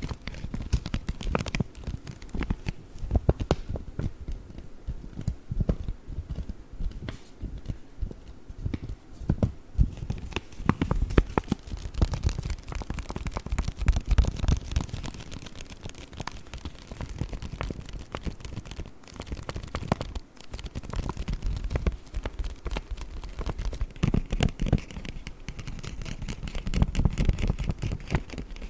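Paper bag handled close to the microphone: a dense, continuous run of crinkles, crackles and taps.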